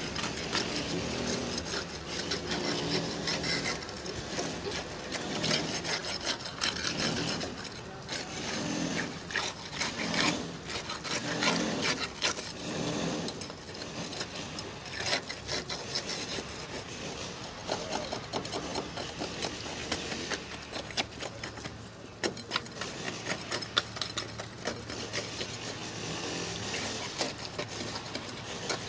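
Hand tools scraping and knocking on fresh concrete and column formwork during the starter casting, with many short taps and rasping scrapes.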